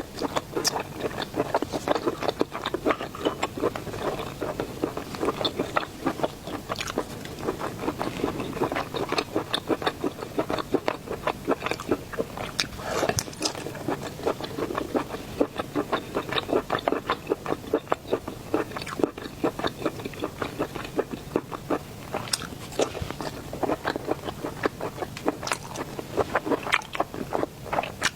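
Close-miked mukbang eating of seafood: continuous chewing and biting, a dense run of rapid clicks and smacks from the mouth.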